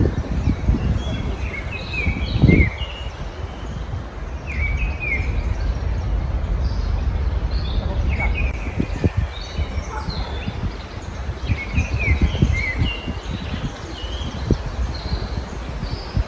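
Small songbirds singing short, high chirping phrases in bursts every few seconds, over a steady low rumble that is louder than the birds.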